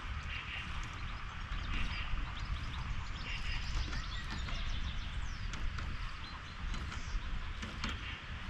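Small songbirds, tits, making short high chirps and calls at intervals over a steady low rumble.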